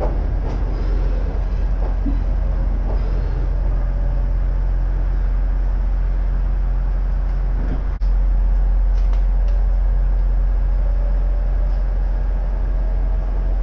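Steady low rumble and hum inside a converted ex-Tokyu electric train car in motion. It gets louder about eight seconds in, and a faint rising motor whine comes in near the end as the train pulls away from a station.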